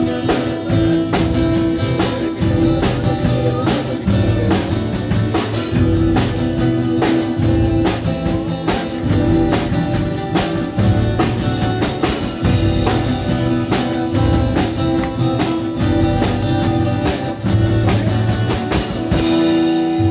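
A band playing a song: a drum kit keeping a steady beat, with guitar and a sustained bass line.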